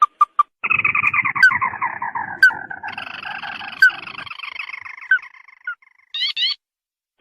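Lure-call recording of the burung tikusan, a red-eyed crake: a long chattering trill that slides down in pitch over about five seconds, with a few sharp notes over it, then a quick run of short rising calls near the end.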